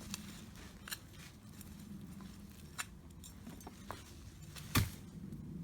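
Hand digging and handling in a soil bed: a few sharp clicks and knocks, with one much louder knock about five seconds in, over a low steady hum.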